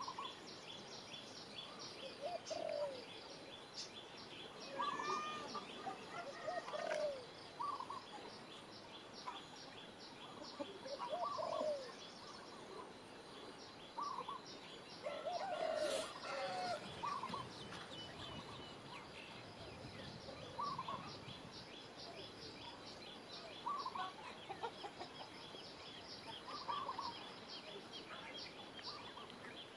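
Birds calling: short calls every second or two, over a steady run of quick, high, evenly spaced chirps.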